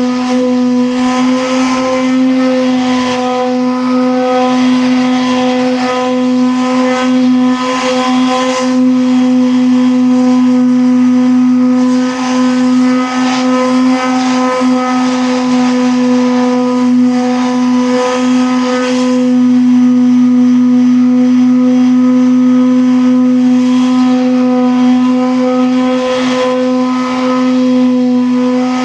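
A machine running steadily with a constant-pitched hum that never changes speed, with a rough hiss over it that swells and fades.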